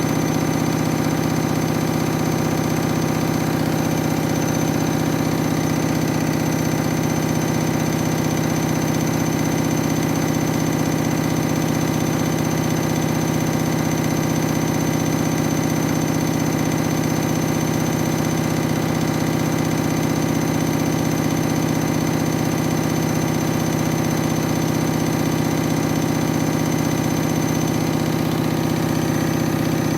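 Front-loading washing machine on its spin cycle with a heavily unbalanced load of towels: a steady motor whine over a fast, continuous rattle as the machine shakes.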